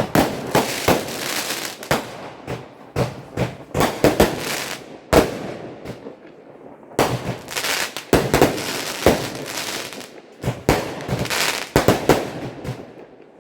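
Aerial fireworks exploding in a rapid barrage of loud bangs with crackle between them, easing off briefly about five seconds in before the bangs start again.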